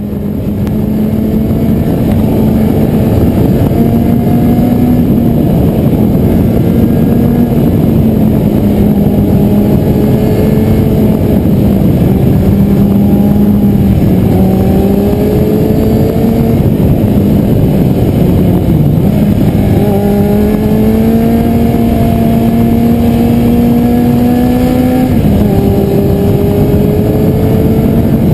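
Kawasaki Z750's inline-four engine running under way, heard from on the bike. Its note climbs slowly and then drops back sharply a few times, about halfway through, briefly near two-thirds, and again near the end, as the throttle and gears change.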